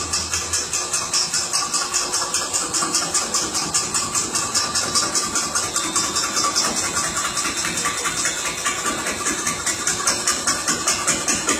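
CNC wood-carving machine running, with an even pulsing of about four beats a second over a steady whine and hiss.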